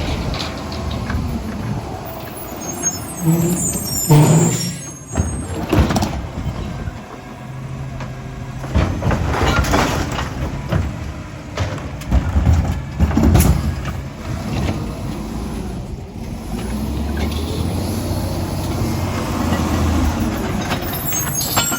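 Autocar ACX recycling truck with a Labrie Helping Hand side arm running at the curb, its engine working under load with several clanks and knocks as the arm handles a cart, and air-brake hiss.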